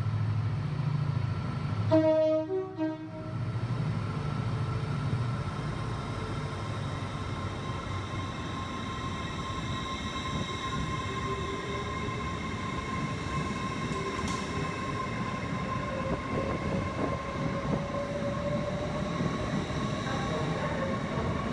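LNER Class 801 Azuma electric train pulling away from the platform. A short horn sounds about two seconds in. Then comes a steady electric whine and rolling noise, with a tone rising slowly as the train picks up speed past the listener.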